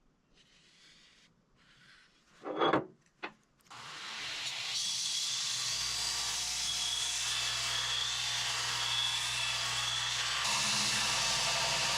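A couple of knocks, then about four seconds in an angle grinder starts and runs steadily against steel plate, a continuous grinding with a high whine.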